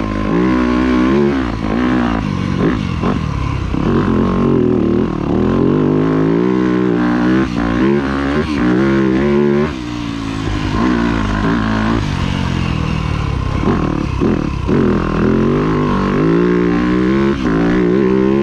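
2025 Yamaha YZ250F four-stroke single-cylinder dirt bike engine being ridden hard, its pitch rising and falling again and again as the throttle is opened and closed.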